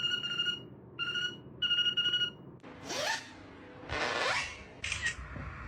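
Parrot whistling three steady, beep-like notes, then giving two rising squawks.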